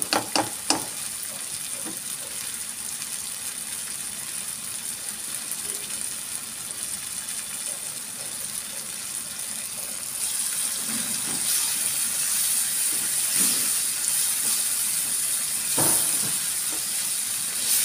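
Diced tomato, onion and green bell pepper sizzling in a nonstick frying pan, a steady hiss that grows louder about ten seconds in. A spatula clicks against the pan as it stirs at the start and again near the end.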